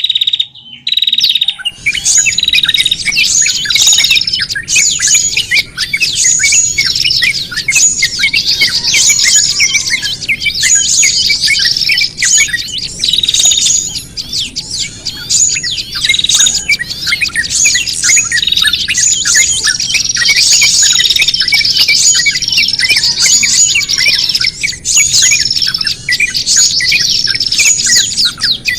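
A dense chorus of small songbirds chattering and calling in agitated alarm, like birds in distress: a bird-trapping lure recording. Rapid high chirps and trills repeat in a regular pattern, starting after a brief break about a second in.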